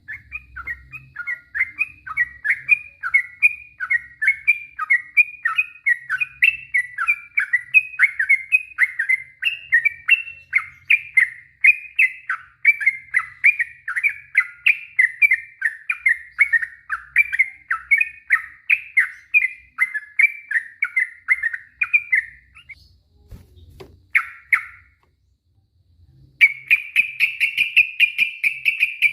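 Sooty-headed bulbul (trucuk) singing a long, rapid run of repeated chattering notes without pause, breaking off about 22 seconds in, then a short phrase, and a denser run starting again near the end.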